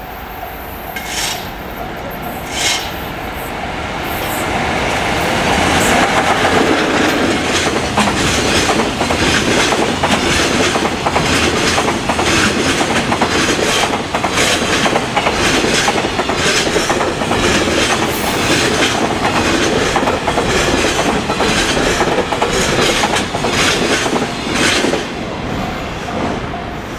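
Freight train hauled by an EF66 electric locomotive passing at speed. It grows louder over the first few seconds, then a long run of wagon wheels clicks over the rail joints before it fades near the end.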